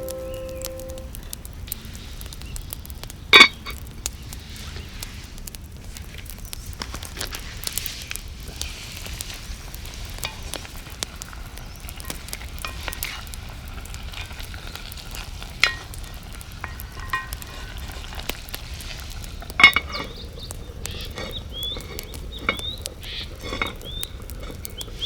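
Pork ribs sizzling steadily over a campfire, with constant small crackles and a few louder sharp pops or clicks.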